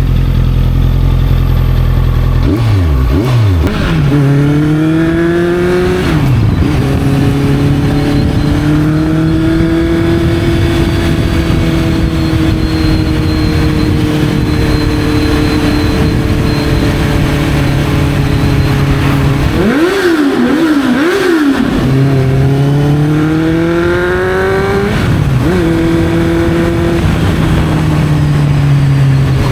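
Honda CB650F's inline-four engine through an Arrow aftermarket exhaust, ridden. The pitch rises under acceleration and drops at each upshift. In the middle stretch it runs at a steady pitch, and a few quick throttle blips come about two-thirds of the way in before it pulls away again.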